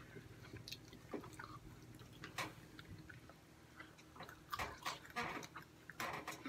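Quiet chewing and mouth sounds of people eating fries and chicken nuggets, with scattered short clicks and smacks, a few more near the end.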